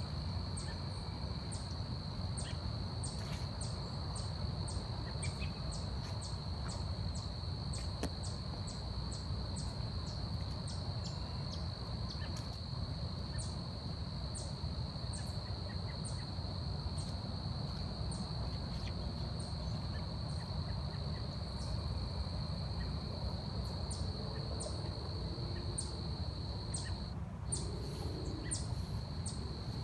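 Forest ambience: insects keep up a steady high-pitched drone that breaks off briefly near the end. Over it come short, very high ticks about twice a second, more sparse in the second half, with a low rumble underneath.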